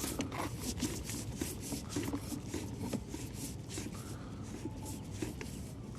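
Irregular scraping and clicking of a sewer inspection camera's push cable being fed down a washing machine drain line, a few sharp ticks a second over a low steady rumble.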